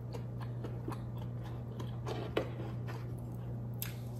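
Close-miked chewing and lip smacks of someone eating crab and rice: soft wet clicks over a steady low hum, with a couple of louder clicks about two and a half seconds in and near the end.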